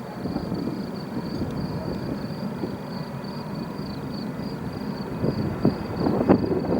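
Low rumble of the Airbus A300-600ST Beluga's jet engines at takeoff power, heard through wind buffeting the microphone. It swells louder and gustier near the end.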